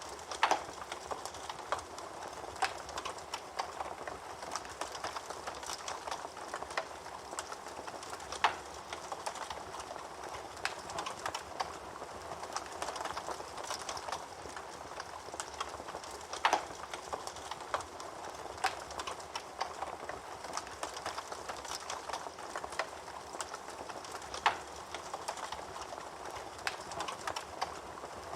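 Wood fire burning in a fireplace: a steady crackle of small snaps, with a louder pop about every eight seconds.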